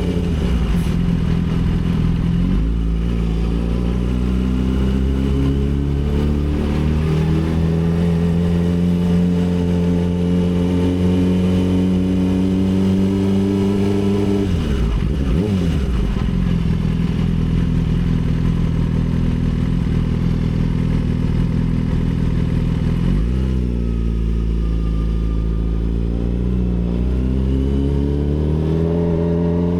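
Yamaha R6 sport bike's inline-four engine running under way, its pitch falling at first, then climbing slowly. It drops and recovers sharply about halfway through and again about three quarters in, then rises toward the end.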